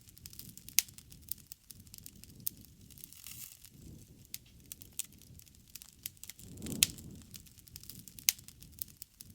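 Wood bonfire crackling and popping at irregular intervals, with a few sharp loud pops, over a low rumble of the flames that swells now and then.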